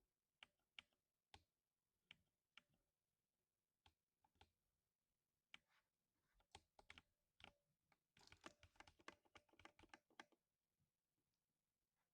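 Faint keystrokes on a 60% mechanical keyboard with lubed silver linear switches: scattered single presses, then a quick run of typing from about eight to ten seconds in.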